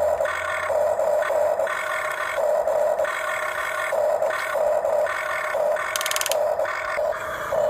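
Radio-controlled toy excavator's electric gear motors whining in short, uneven bursts as the controls are worked, with a brief rapid clicking about six seconds in.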